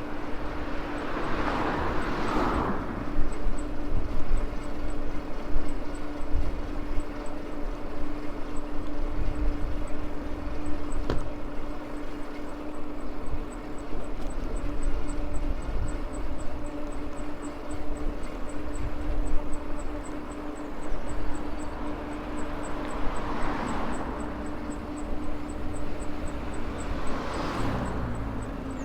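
Maxtron Mule folding e-bike being ridden: a steady electric-motor whine over low wind and tyre rumble. Twice a passing vehicle swells up and fades, once near the start and again near the end.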